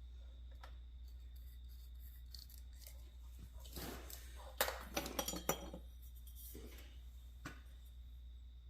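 Light clinks and taps of small tools being handled while a sand mould is measured and marked, a short cluster of them a little under halfway through, over a steady low hum.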